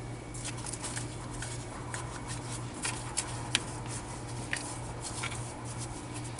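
Light, irregular clicks and rustles of something being handled, over a steady low hum.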